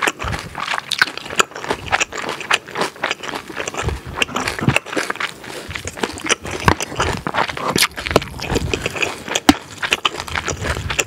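Close-miked chewing: wet, irregular mouth clicks and crackles from a mouthful of food, with chopsticks clicking and scraping in a bowl.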